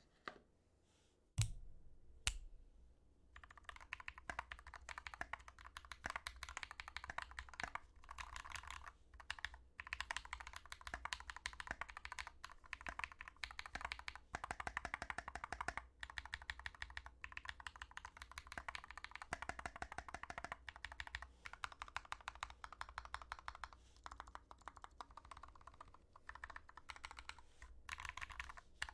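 Typing on a GK61x mechanical keyboard with lubed Glorious Panda tactile switches: two single key presses in the first few seconds, then fast, continuous keystrokes.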